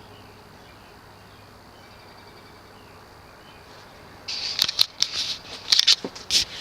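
Faint steady hum, then from about four seconds in an irregular run of sharp rattling clicks.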